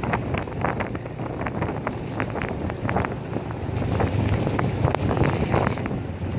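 Wind buffeting the microphone on a moving motorcycle, over the bike's steady low engine hum, with frequent short crackles.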